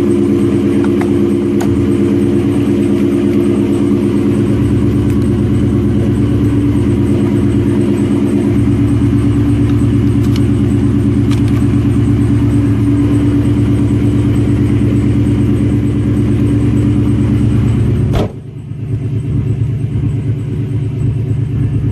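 Ford Mustang with a Borla ATAK cat-back exhaust, running steadily at idle with a deep exhaust note. About eighteen seconds in the sound drops abruptly to a quieter level.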